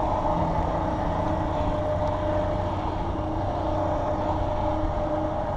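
Wind rumbling on a head-mounted camera's microphone while riding a mountain bike, with a steady hum over it.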